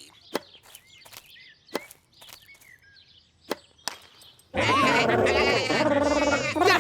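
Cartoon sheep bleating loudly together, starting suddenly about four and a half seconds in, in wavering calls. Before that it is quiet except for a few sharp clicks and faint high chirps.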